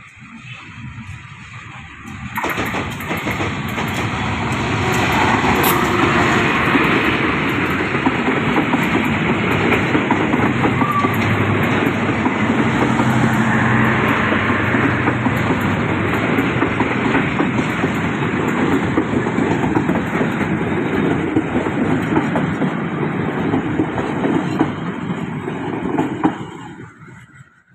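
A diesel-hauled passenger train runs close past: the locomotive comes up, then a long line of coaches rolls by, its wheels on the rails making a steady loud rumble. The sound dies away quickly near the end.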